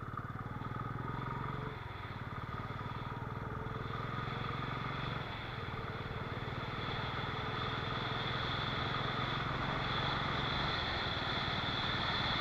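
Motorcycle engine running steadily while riding at road speed, with road and wind noise.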